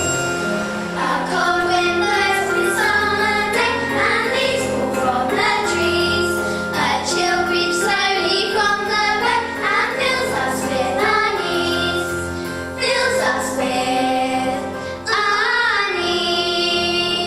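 A children's chorus singing a musical-theatre song with instrumental accompaniment.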